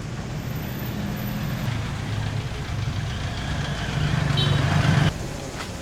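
A motor vehicle's engine running close by in street traffic. It grows louder over about five seconds, then stops suddenly.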